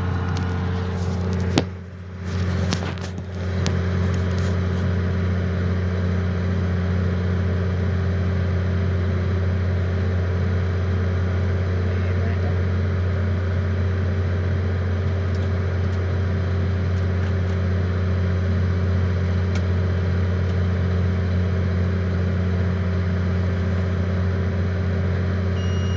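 Vacuum truck engine running at a steady idle, with a single knock and a brief dip in level about two seconds in.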